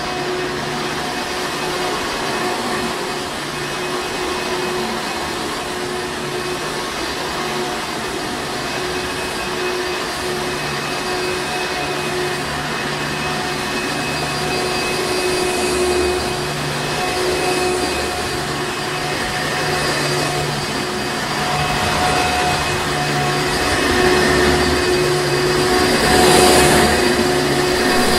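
Hoover Encore Supreme upright vacuum cleaner running steadily: a motor whine over airflow noise, growing somewhat louder over the last few seconds.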